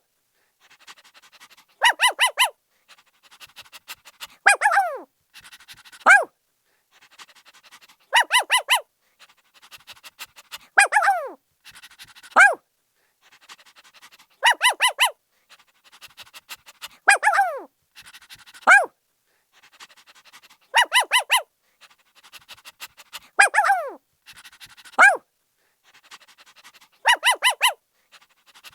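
Puppy barking: a quick run of high yips, then a yelp that falls in pitch, then a shorter one, the same sequence repeating about every six seconds.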